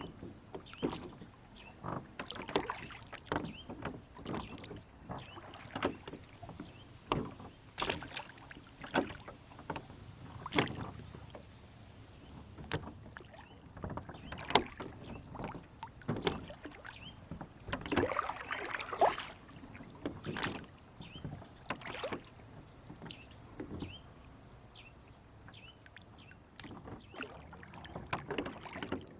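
Rowboat on a lake: water lapping and slapping against the hull, with irregular knocks and splashes that come and go.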